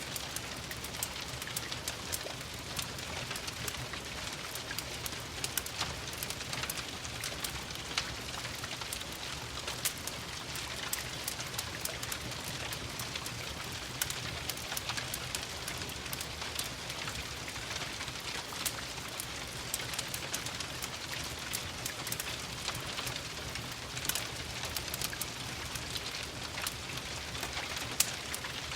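Steady rain falling, a constant hiss, with many short sharp pops and crackles from a wood fire in a fireplace.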